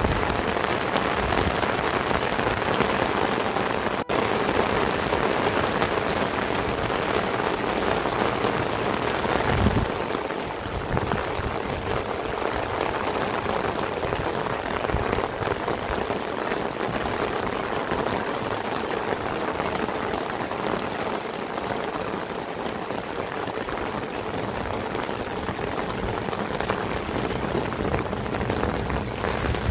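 Heavy rain falling steadily, a dense even hiss of drops. It eases slightly after about ten seconds.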